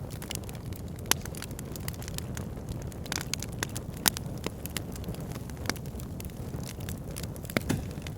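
Backyard fire pit burning: a steady low rumble of flames with frequent sharp crackling pops. The loudest pops come about a second in, at about four seconds, and near the end.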